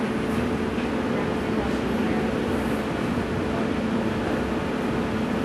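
Steady ride noise inside a moving commuter rail coach: a low rumble of wheels on rail with a constant hum.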